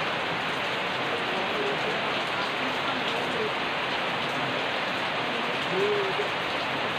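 Steady rain falling, an even unbroken hiss of rainfall, with a faint short pitched sound about six seconds in.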